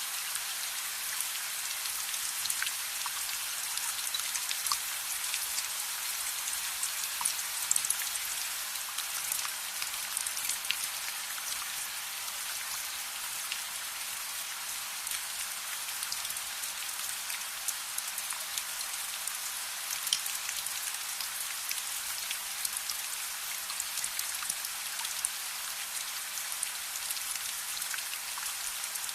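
Steady rain falling, an even hiss dotted with scattered sharp little ticks and crackles.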